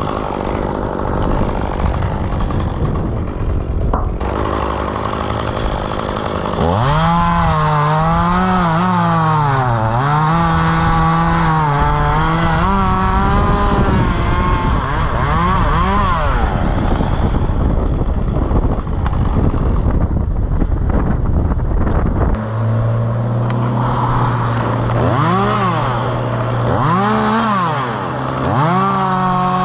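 Two-stroke chainsaw running, its engine speed rising and falling repeatedly as it cuts. From about two-thirds of the way in it holds a steadier, lower speed, broken by three short revs near the end.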